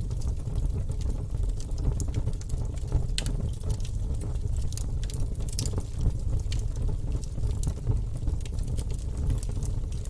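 Wood fire burning in a fireplace: a steady low roar of the flames with irregular sharp crackles and pops from the burning logs throughout.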